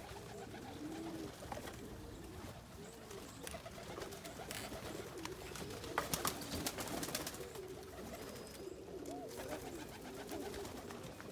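Domestic pigeons cooing, several birds overlapping in repeated low rising-and-falling calls, with a few sharp clicks about six seconds in.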